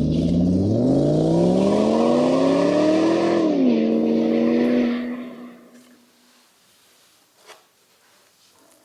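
Oil friction test machine running with a grinding hiss, its motor pitch rising for a few seconds, then dropping and winding down to a stop about five seconds in. A short click follows near the end.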